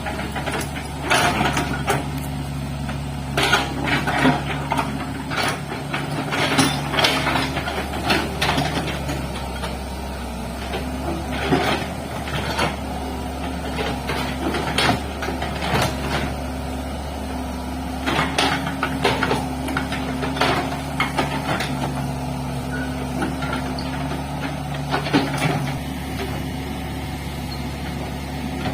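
Hitachi excavator's diesel engine running steadily while it digs, with many irregular knocks and clanks over the engine drone.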